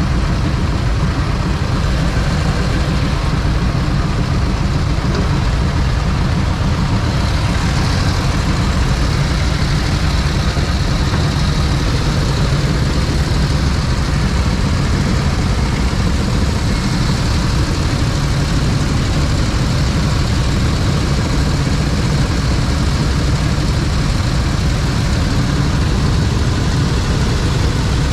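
Motorcycle engine running steadily, with a dense low rumble that holds at an even loudness throughout.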